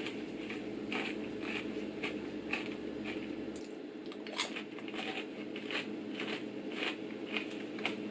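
A person chewing caramel-coated popcorn with peanuts, with many short, irregular crunches.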